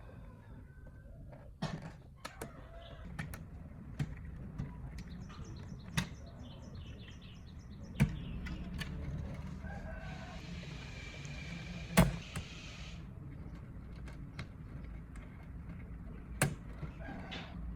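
Scattered sharp clicks and knocks of hand tools and loose metal parts being handled, one every couple of seconds, with a run of quick light ticks around six seconds in. A steady hiss runs for about three seconds from around ten seconds in.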